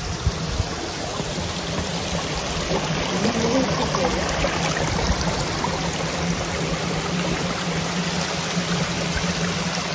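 Small moorland waterfall and stream rushing steadily over rocks: an even, unbroken hiss of falling water, with the stream running low in dry weather.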